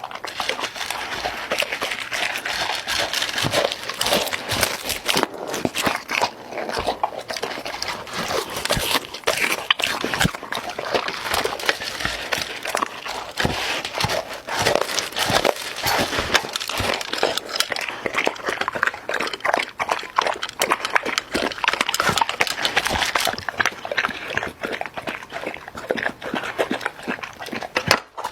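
A dog's sounds among dense, irregular clicking and crackling.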